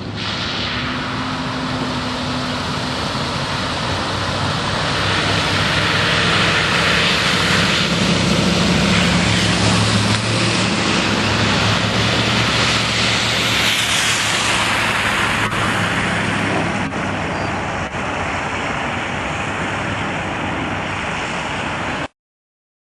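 Engine of a passing motor vehicle, a low hum over a steady rush of noise, growing louder to a peak about eight to ten seconds in and then fading; the sound cuts off suddenly near the end.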